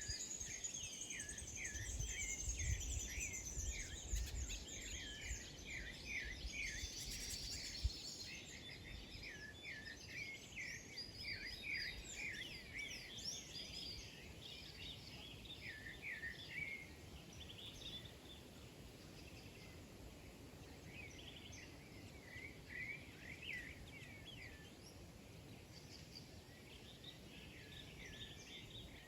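Many small birds chirping together in quick, overlapping short calls, busiest in the first half and thinning out later, with a low rumble underneath during the first eight seconds or so.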